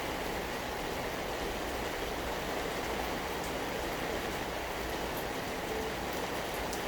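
Steady rain falling, an even hiss of rain on surfaces with a few scattered drip clicks.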